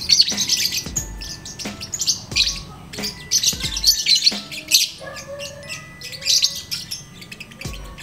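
Fischer's lovebird chattering in rapid high-pitched trills, in bursts about every half second to second, over background music with a steady beat.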